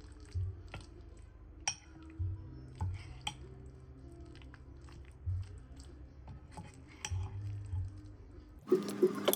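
Kitchen utensils clinking and knocking against dishes in irregular taps, over faint background music. Near the end the sound cuts suddenly to louder music.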